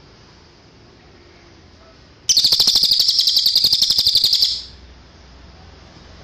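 A cililin songbird sings one fast trill of rapid, evenly repeated high notes. The trill lasts a little over two seconds and starts about two seconds in.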